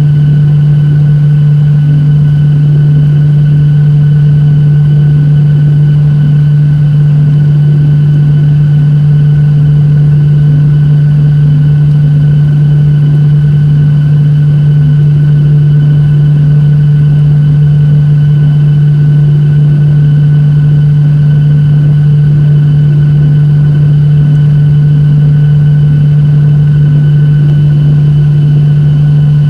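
Steady cabin drone of a Boeing 737-800 with its CFM56 turbofan engines running, heard inside the passenger cabin. It is a loud, unchanging low hum over a constant rush of air, with a few fainter steady tones above it.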